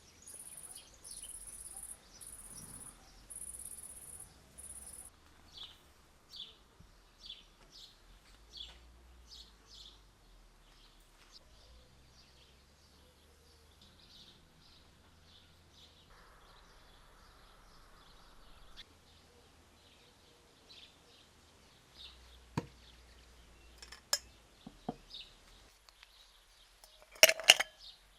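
An insect trilling in regular high-pitched pulses for about five seconds, followed by a long run of short high chirps. Near the end come a few sharp knocks and clinks, the loudest of them just before the close.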